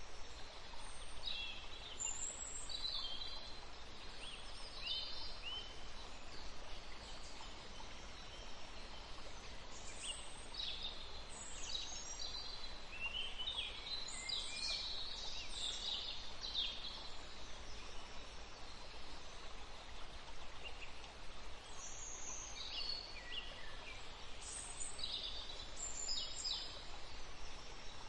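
Steady sizzling of whole spices and sliced onions frying in hot ghee in an aluminium pot, with bursts of small birds chirping and twittering about a second in, through the middle, and again near the end.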